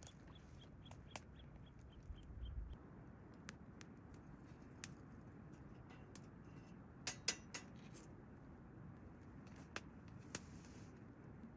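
Quiet outdoor ambience: a fast run of short high chirps, about five a second, that stops about a second in, then scattered sharp ticks and clicks, the loudest a pair about seven seconds in.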